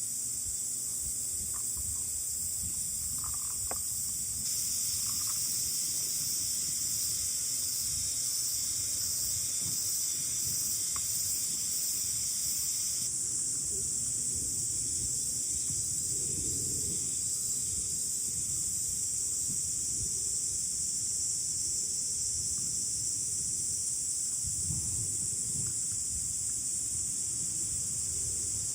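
Steady, high-pitched chorus of insects trilling without a break, over a low rumble of wind on the microphone that swells twice, about halfway through and near the end.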